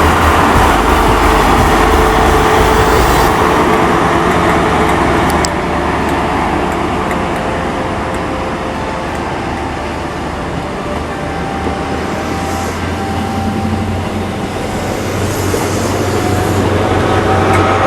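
Class 43 high-speed train power car's diesel engine running loud and steady, easing off about five seconds in and building up again near the end.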